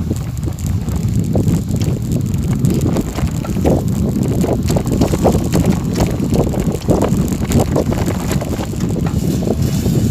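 Wind rumbling on the microphone while moving along a gravel forest road, with irregular crunches and rattles of tyres over stones.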